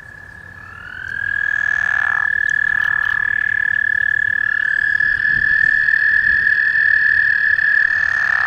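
Several American toads trilling in a breeding chorus: long, high, steady musical trills that overlap. One starts about half a second in with a short upward slide, and another joins around five seconds. Shorter, lower frog calls are mixed in among them.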